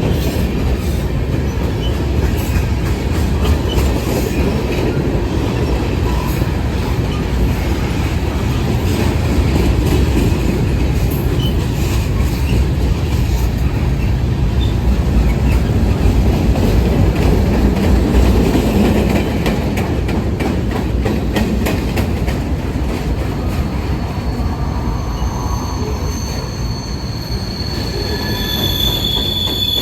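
A train rolling past: a steady, loud rumble of steel wheels on rail with bursts of clicking over the joints. In the last few seconds, high-pitched wheel squeal rises over it.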